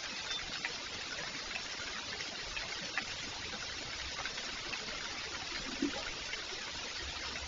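Rain falling steadily, an even hiss with scattered sharper drop impacts.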